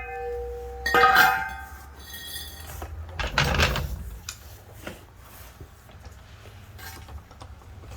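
Metal tools and parts clinking against metal: a sharp clank that rings on with a clear metallic tone about a second in, a rougher scraping clatter around three and a half seconds, then scattered light clicks.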